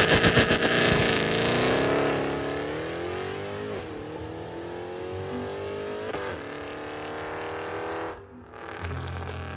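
Mercedes-Benz C63 AMG's 6.2-litre naturally aspirated V8 accelerating hard through the gears. Its pitch climbs, drops at two upshifts about four and six seconds in, then climbs again. It cuts off about eight seconds in, and a lower steady engine drone follows.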